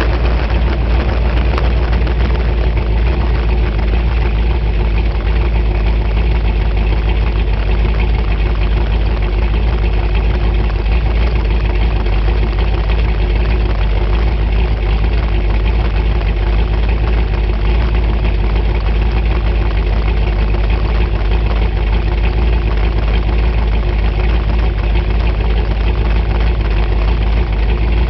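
Sprint car's eight-cylinder engine, breathing through open velocity stacks, idling steadily.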